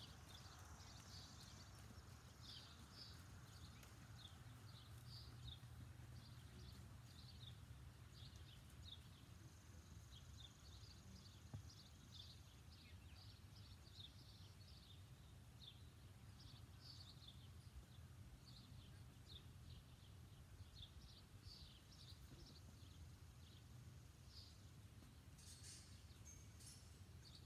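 Near silence: faint bird chirps repeating here and there, over a low steady rumble.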